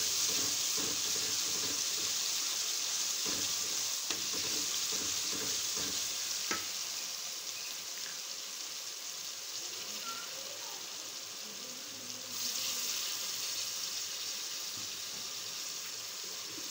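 Tomato masala sizzling in hot oil in an aluminium pot, with a wooden spoon stirring and knocking against the pan over the first six seconds or so. About twelve seconds in the sizzle jumps louder as a little water goes in, added so the spices don't burn and mix in well.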